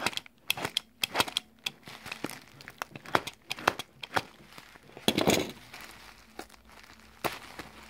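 A parcel being opened with a box cutter, its wrapping crinkling and tearing: a run of sharp crackles, a longer rustle about five seconds in, then a few scattered clicks.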